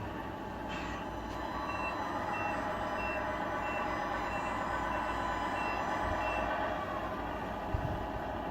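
Reversing beeper on an RC scale truck's sound unit, giving about eight short beeps of one pitch, roughly one and a half a second, which then stop. Underneath, the unit's simulated diesel engine runs steadily.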